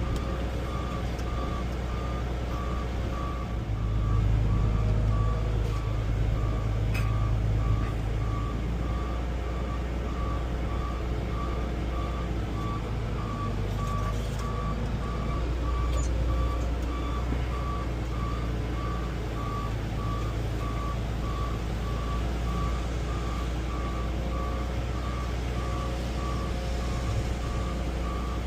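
Backup alarm beeping in an even, steady rhythm while a heavy machine reverses, over the low drone of its engine, heard from inside the cab.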